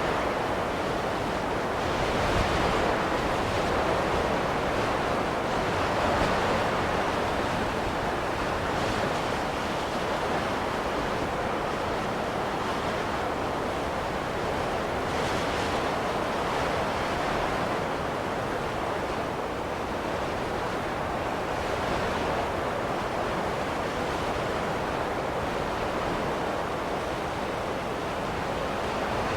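Steady rushing wind of a snowstorm, swelling and easing in gentle gusts every few seconds.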